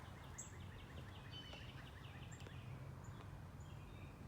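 Birdsong outdoors: a bird sings a fast trill of short repeated chirps for about two seconds, then a few more scattered chirps and high notes follow, all faint over a steady low background hum.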